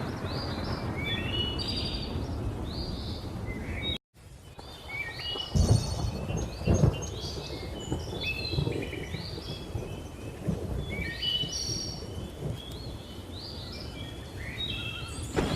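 Many birds chirping and whistling over a thunderstorm's low rumble and rain. The sound cuts out completely for a moment about four seconds in. Two louder booms of thunder come shortly after.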